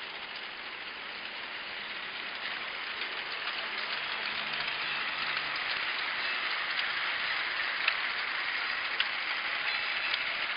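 Battery-powered New Bright G-scale toy train running on its track, a steady whirring rattle of motor and wheels that grows gradually louder as it approaches, with occasional sharp clicks.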